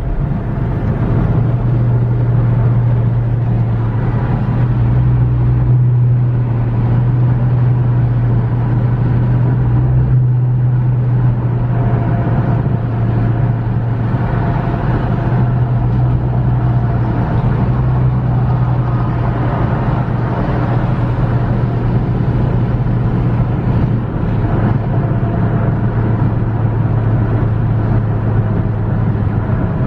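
Steady road and engine noise of a car driving on a highway: a loud, even low drone with no break.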